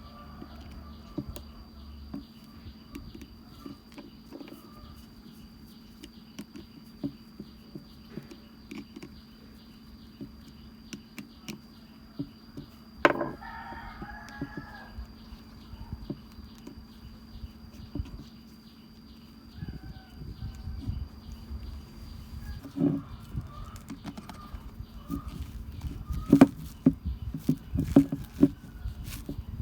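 Chickens clucking in the background, with scattered light clicks and a few louder knocks over a faint steady hum.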